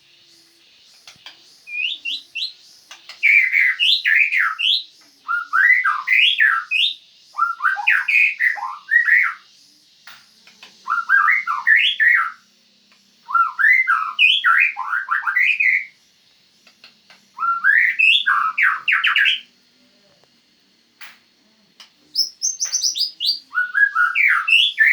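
Medan-type white-rumped shama (murai batu) singing: a string of quick, varied whistled phrases, each a second or two long, with short pauses between them.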